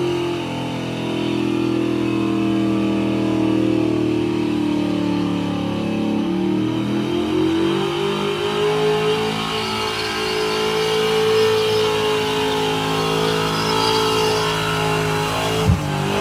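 A Chevrolet Bel Air's engine is held at high revs during a burnout. Its note sags and then climbs again partway through, with one sharp crack near the end.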